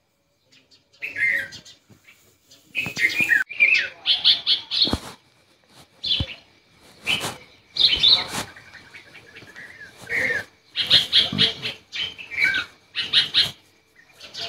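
Birds calling repeatedly in short bursts of chirps after about a second of near silence, some calls sliding down in pitch, with a couple of sharp knocks midway.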